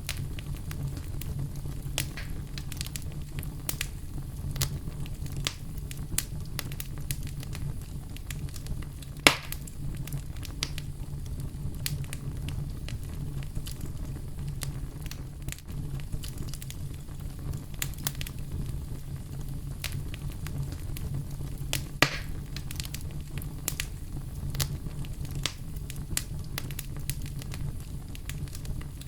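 Campfire burning with a steady low rumble and frequent sharp crackles and pops of burning wood, two louder pops about nine and twenty-two seconds in.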